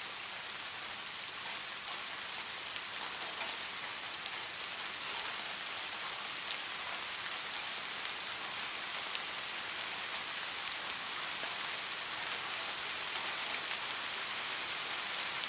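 Steady rain falling, a dense even hiss with fine scattered drop patter.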